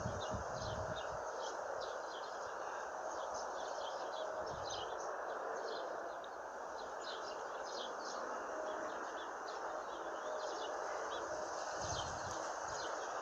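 Small birds chirping in many short, high calls, over a steady outdoor background noise, with a few low bumps near the start and near the end.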